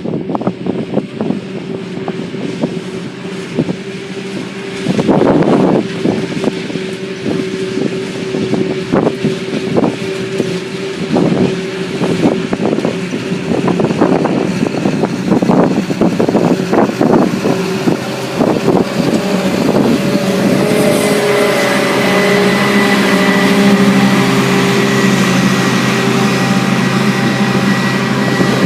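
Diesel engines of silage-harvesting farm machinery running with a steady drone. A second engine grows louder from about two-thirds of the way through. Wind gusts buffet the microphone unevenly.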